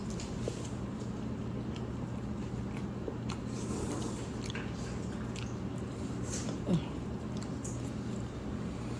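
Close-up eating sounds: chewing and biting noodles, with scattered soft wet clicks and smacks and a short squeak about two-thirds of the way through, over a steady low hum.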